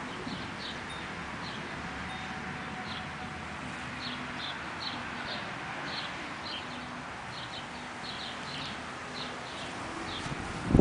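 Small birds chirping in short, scattered high notes over a steady hiss of breeze, with a loud low thump near the end.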